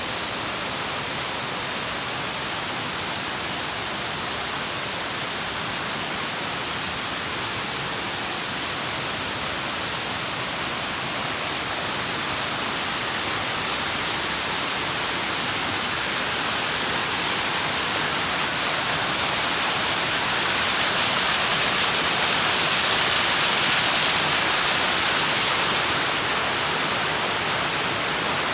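Waterfall: a steady rush of falling water that grows somewhat louder after about two-thirds of the way through, then eases slightly.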